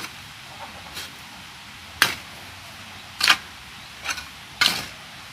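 Five short scraping strokes in loose soil, roughly one a second and irregular, as earth is pushed over a small grave to fill it in.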